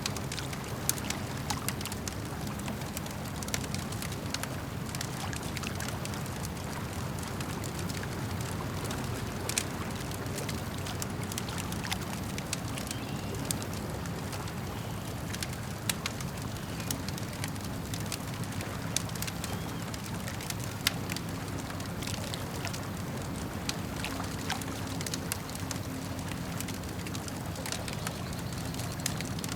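Campfire crackling, with sharp pops scattered irregularly throughout, over a steady low wash of lake water.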